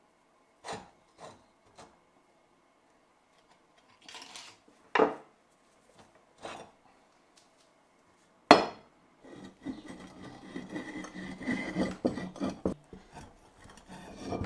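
Metal vise parts and tools being handled on a workbench: a few light clinks, then sharper knocks, the loudest about eight and a half seconds in. This is followed by several seconds of steady scraping and rubbing of metal.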